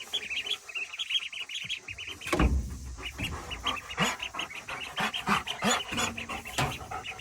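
Ducklings peeping quickly and repeatedly for the first couple of seconds. Then a loud knock with a low rumble, followed by scattered clicks and rustling.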